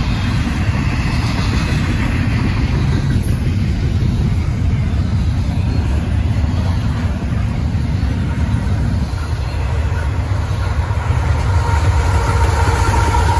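Freight train rolling past with a steady, heavy rumble of wheels on rail. A faint thin high tone comes in near the end.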